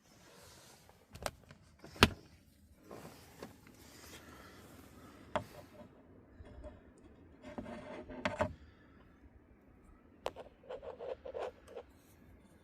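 Irregular clicks, knocks and rubbing, with one sharp click about two seconds in and a quick run of clicks near the end.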